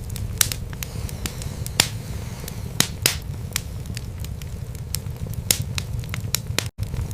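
Wood fire burning in a fireplace, crackling with irregular sharp pops and snaps over a steady low rumble of the flames. The sound cuts out for an instant near the end.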